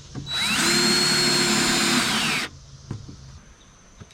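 Power drill driving a screw through sheetrock into the wooden backing behind it. The motor whines up to speed, runs steadily for about two seconds, then winds down as the screw seats, followed by a short click.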